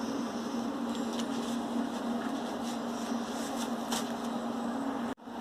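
Steady workshop hum with a constant low tone and an even hiss, with a few faint taps and clicks as metal parts are handled; it cuts out suddenly near the end.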